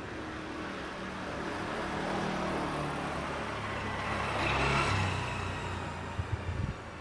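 A motor vehicle passes close by, its engine note falling in pitch as it goes and loudest just before five seconds in. Near the end come a few short low thumps.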